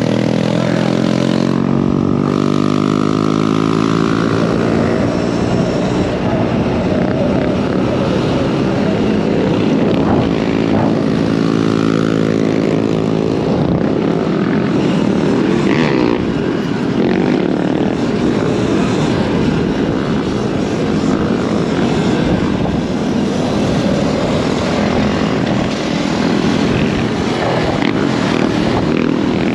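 Dirt bike engine running under way, its pitch rising and falling with the throttle, over a steady rush of noise.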